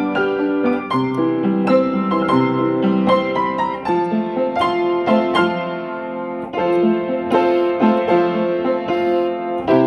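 Instrumental keyboard music: piano-like notes played in a steady flowing line over held lower notes.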